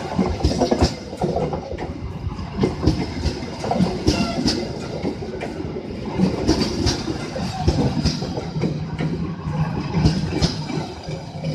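Passing train, with its wheels clacking over the rail joints in a loud, irregular run of sharp clicks over the steady rumble of the cars.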